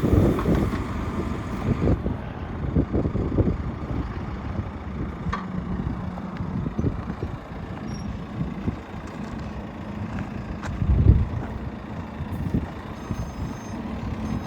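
JCB 3CX backhoe loader's diesel engine running as the machine works, with uneven knocks and swells in its rumble. Near the end its reversing alarm beeps in short repeated tones.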